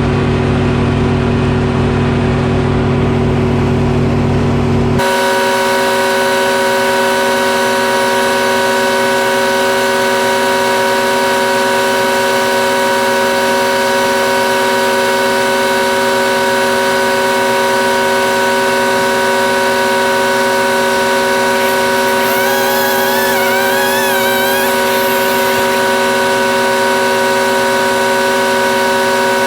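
Sawmill powered by a Detroit Diesel engine running steadily under load. About five seconds in, the sound switches sharply from a deep engine drone to a steady, higher whine made of several held tones. A brief wavering tone rises over it a little past two-thirds of the way through.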